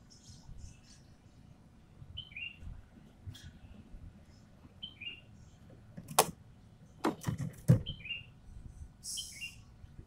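Ekek keling bird giving short, harsh calls that drop in pitch, repeated every second or two. Several sharp clicks or knocks, the loudest sounds, come in a cluster a little past the middle.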